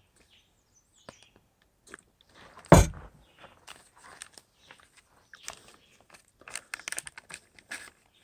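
A single loud knock, then a run of irregular clicks and scrapes from a utensil stirring and scraping powdered mashed potato, cream and water in a metal camping pot.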